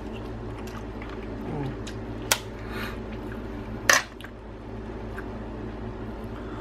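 Crab shell being cracked and broken by hand, two sharp cracks about a second and a half apart, over a steady low background hum.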